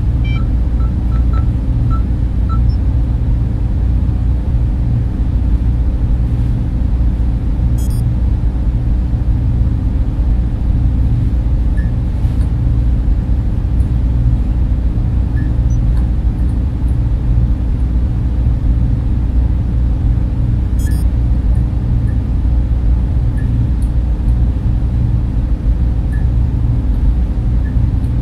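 Steady, dense low hum of a data center server room: many server and cooling fans running together, with faint short beeps now and then.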